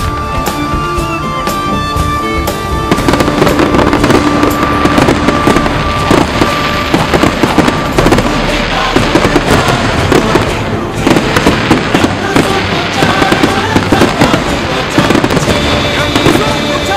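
Fireworks display: rapid, dense crackling and popping bangs that thicken about three seconds in, with music playing underneath.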